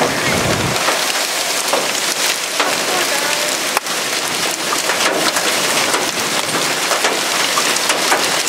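Heavy rain pelting a vehicle during a severe thunderstorm, a steady loud hiss dotted with sharp ticks of drops striking the body and glass. A low rumble drops away about a second in.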